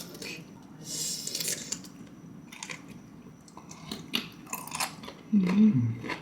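A person chewing crisp blanched cannonball jellyfish: repeated wet crunches and clicks in the mouth. Near the end there is a short hummed vocal sound that falls in pitch.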